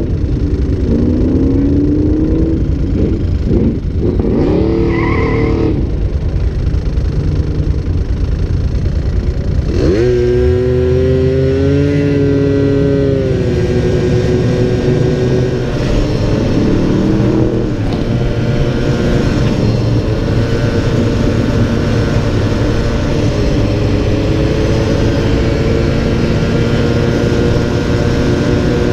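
Motor vehicle engine accelerating and then running at steady speed, its pitch rising and levelling off several times, over a heavy low rumble.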